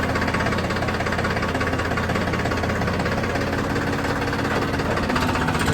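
Tractor's diesel engine running steadily, with a rapid, even beat from its firing and no change in speed.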